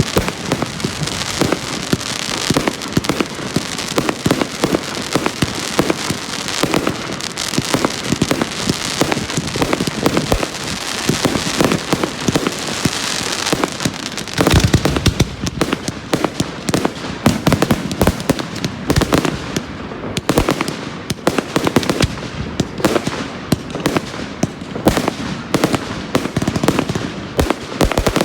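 Fireworks going off in a rapid barrage: dense crackling throughout, with a heavier bang about halfway and a string of sharper cracks after it.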